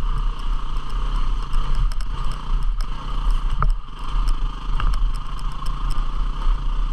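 A 250 cc single-cylinder dual-sport motorcycle engine running steadily on a trail ride, with a few short clicks and knocks from the bike over rough ground.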